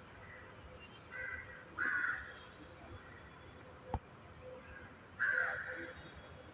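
A bird calling three times, a short call about a second in, then louder calls about two seconds in and a little after five seconds, with a single sharp click just before four seconds.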